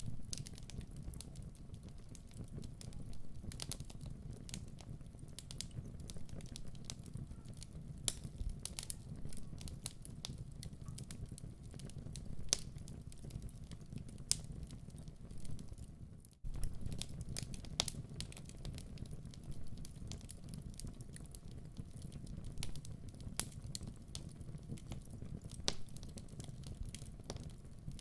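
Wood fire burning in a fireplace: a steady low rumble of flames with frequent sharp crackles and pops. The sound cuts out for an instant about sixteen seconds in.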